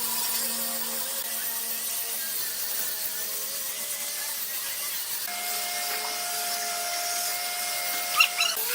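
Electric power tool running steadily with a motor hum, the tone changing about five seconds in, and a single sharp knock near the end.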